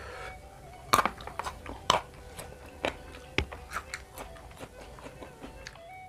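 Close-up crunching bites into raw vegetables: two loud crisp bites about one and two seconds in, then lighter crunchy chewing.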